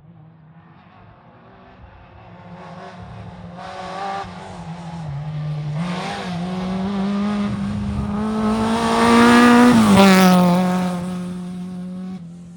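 Historic rally car approaching at full throttle, its engine pitch climbing through the gears with a shift about five seconds in. It passes loudest about ten seconds in, the pitch dropping sharply as it goes by, then fades away.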